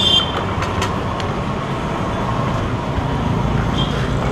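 Steady low rumble of road traffic and vehicle engines, with a short high-pitched beep right at the start and a fainter one near the end.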